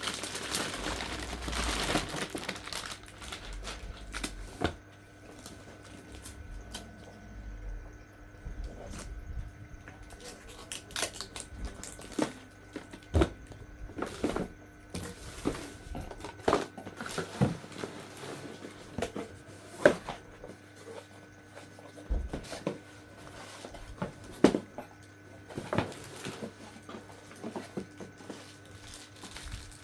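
Packaging crinkling and rustling for the first few seconds, then scattered sharp clicks and knocks of plastic parts and cardboard being handled while a robot vacuum is unboxed. A faint steady hum sits underneath.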